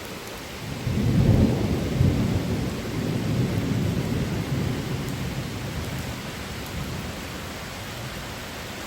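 A rolling clap of thunder over steady rain: a deep rumble swells suddenly about a second in, peaks twice, then slowly rumbles away while the rain keeps falling.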